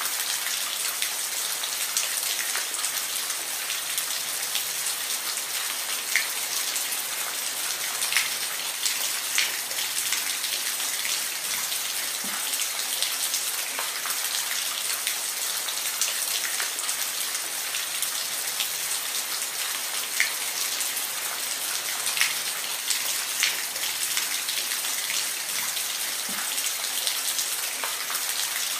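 Steady rain: an even hiss of rainfall with many separate drops ticking sharply on a hard surface.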